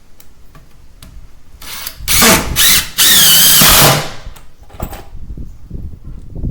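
Power drill driving screws into the floor framing, two loud runs of about a second each with a high whine, amid a few light knocks.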